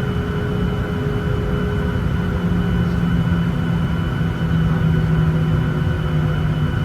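Cabin noise of a Boeing 737-900ER taxiing, heard from a window seat: a steady low rumble from its CFM56 jet engines at taxi power, with a thin steady whine and a low hum that grows a little stronger a couple of seconds in.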